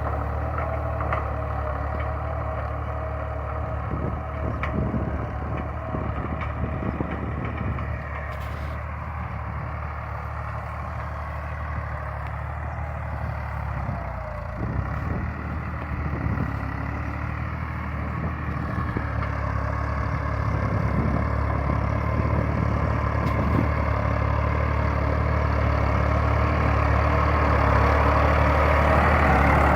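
Massey Ferguson 260 Turbo tractor's diesel engine running steadily as it pulls a tine cultivator, growing louder over the last several seconds.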